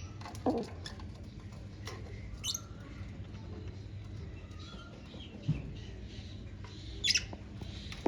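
Lovebirds giving a few short, sharp chirps at scattered moments, the loudest about two and a half seconds in and about seven seconds in, over a steady low hum.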